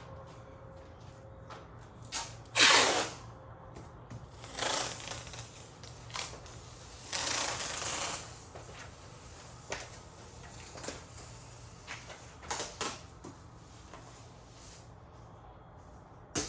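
Tape being pulled off the roll in several short rasping strips, the longest about a second, with handling noises in between.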